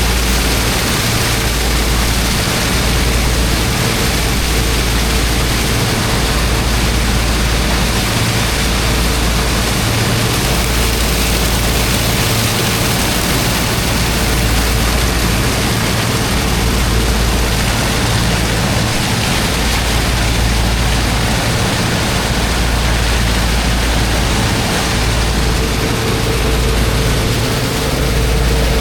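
High-pressure water jet hissing steadily as it blasts into a pile of river sand, over the steady drone of the pump engine and a heavy low rumble.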